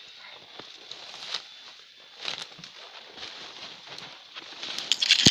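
Irregular rustling and crackling of brush and twigs being handled and trodden, with a cluster of sharper snaps near the end.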